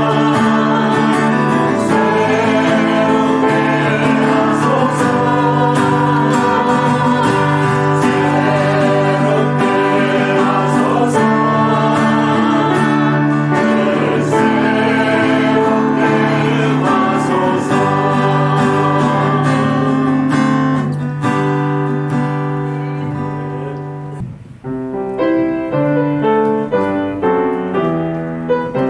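Church praise team singing a worship song with keyboard accompaniment. The song winds down about 21 s in, and after a brief dip the keyboard plays on alone.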